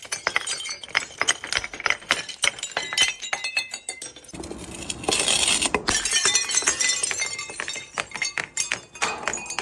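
Glass bottles breaking, with shards clinking and scattering in a rapid run of sharp clinks. A denser crash of breaking glass comes about five seconds in.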